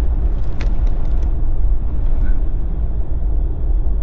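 Steady low rumble of a Jeep driving on a snowy, salted road, its tyres and engine running together, with a few faint clicks about half a second to a second in.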